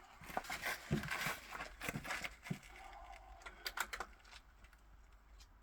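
Handling noise between rimfire rifle shots: a run of light clicks and knocks with bursts of rustling, as the rifle and gear are worked and moved, quieter over the last second or two.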